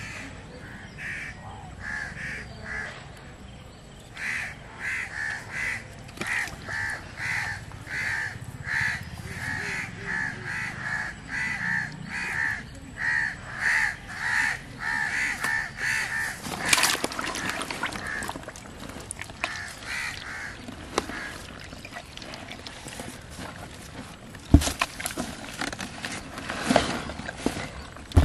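A bird calling over and over, about two calls a second, through the first sixteen seconds or so. Then splashing and several sharp knocks as live catfish are handled in a plastic basin of water, the loudest knock about twenty-five seconds in.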